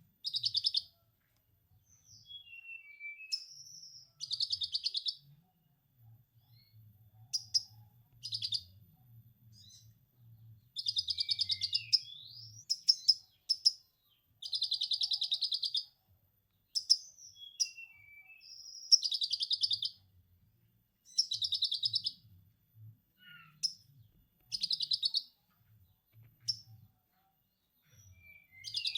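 A konin songbird singing lovebird-style 'ngekek' song: a series of fast, rattling trills, each about one to two seconds long, broken up by short whistled and gliding notes.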